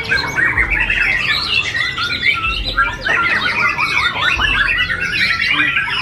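Several caged contest songbirds singing at once: a dense, unbroken tangle of quick chirps, trills and whistled glides.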